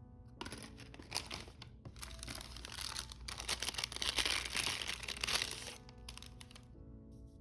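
Packaging crinkling and tearing as a parcel is unwrapped by hand, a dense crackle that starts about half a second in, grows loudest past the middle and stops near six seconds. Soft background music plays underneath.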